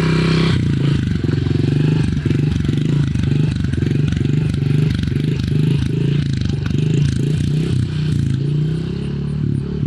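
Pit bike engine running under throttle while being ridden, its note pulsing a few times a second.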